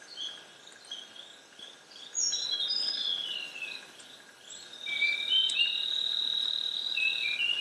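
Tropical forest ambience: several birds giving short chirps and whistles over a steady insect drone, with a long high, even insect note held for a couple of seconds in the second half.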